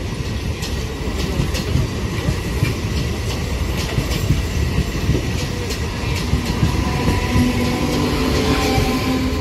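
Electric MEMU passenger train rolling past close by: a steady heavy rumble with sharp clicks and clatter from the wheels over the rail joints. A steady hum comes in near the end as the motor coach passes.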